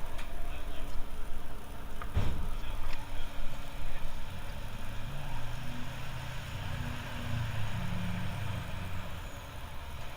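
Low rumbling shop background noise with a single sharp knock about two seconds in.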